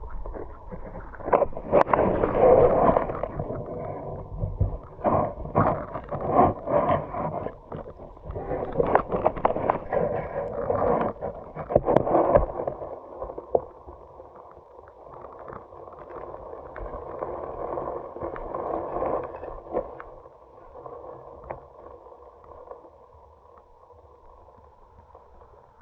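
Mountain stream water: irregular splashing and sloshing for about the first half, then a quieter steady flow of running water.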